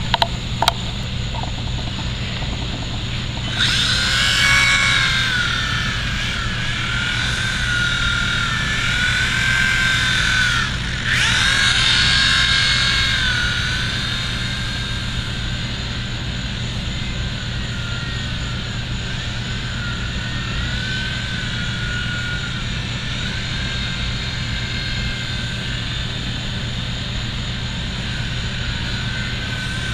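Electric motor whine of a WLtoys V911 micro RC helicopter, its pitch wavering up and down as the throttle changes. It sets in about three seconds in, is loudest for about ten seconds, then fades to a faint whine. A steady low hum runs underneath.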